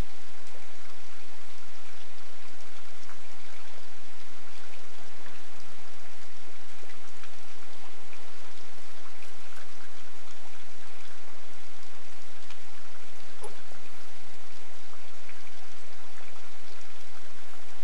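Steady rain falling: an even, unbroken hiss with scattered drop ticks, and one sharper click about thirteen seconds in.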